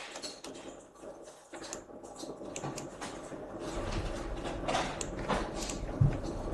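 Scattered clicks of a computer keyboard and mouse, then a low rumble sets in about halfway through, with a dull thump near the end.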